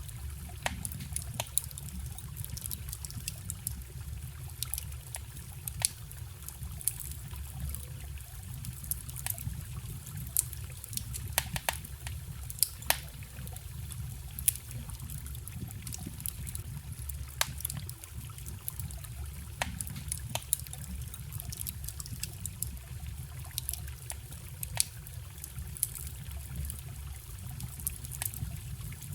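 Wood fire crackling, with irregular sharp snaps and a few louder pops, over the steady low rush and trickle of a forest stream.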